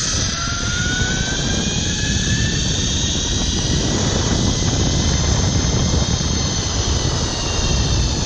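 Zipline trolley pulleys running along the steel cable with a high whine that rises in pitch as the rider picks up speed, over heavy wind rushing on the microphone.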